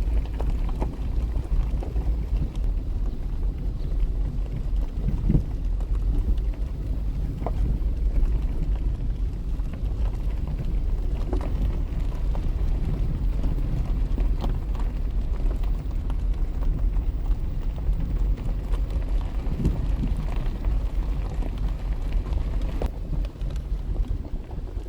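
Wind buffeting the microphone outdoors: a steady, uneven low rumble, with faint scattered ticks over it.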